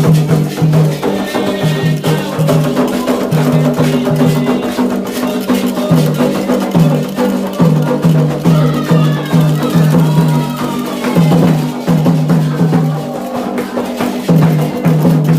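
Candomblé ritual music: atabaque hand drums beating a steady, fast rhythm with a struck bell or wood-block-like percussion, and voices singing over it.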